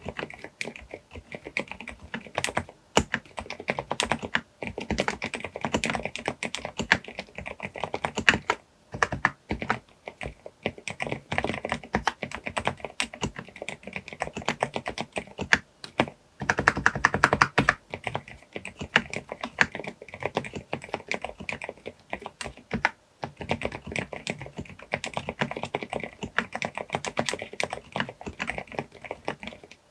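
Groovestone GV10M-8K mechanical keyboard with 38 g silent brown switches being typed on steadily, a dense run of muted key clacks. There are brief pauses a few times, and a quicker, louder flurry about halfway through.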